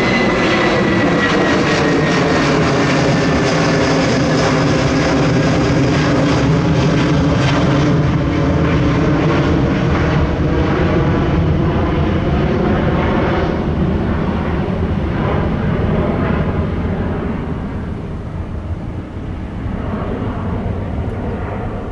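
Airbus A330-223 jet airliner's twin Pratt & Whitney PW4168 turbofans passing by: a loud rumble with a high whine and engine tones sliding down in pitch as the aircraft moves away. The sound fades over the last few seconds.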